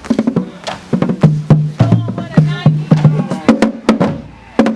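Marching band drumline playing a cadence: quick groups of sharp drum strikes at a few low pitches, with stick clicks between them and a brief pause near the end.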